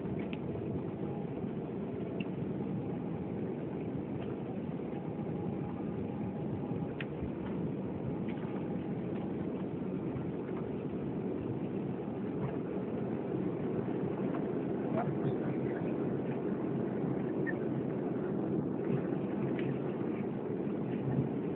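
Jet engines of an Airbus A340-600, four Rolls-Royce Trent 500s, running at take-off power: a steady low rumble that grows slightly louder toward the end.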